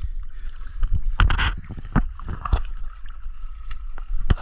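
Water sloshing and splashing around people wading, with wind rumbling on the microphone and a few sharp splashes through the middle.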